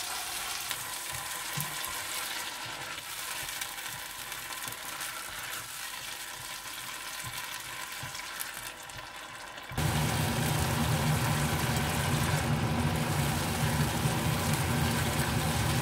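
Chopped tomatoes frying in hot oil with onions and ginger-garlic, sizzling as a spatula stirs them around the pot. About ten seconds in, the sizzle gets louder and a steady low hum joins it.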